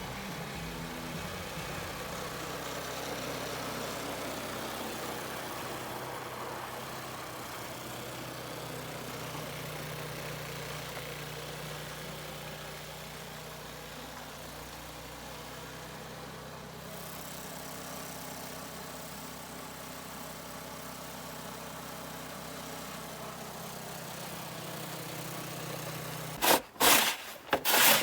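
An engine running steadily at idle. Near the end, several loud scraping strokes of a snow shovel start, each a second or less apart.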